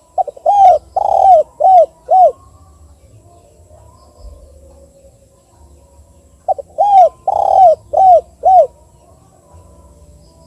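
Spotted dove cooing: two phrases about six seconds apart, each a short lead-in note followed by four loud, arching coos.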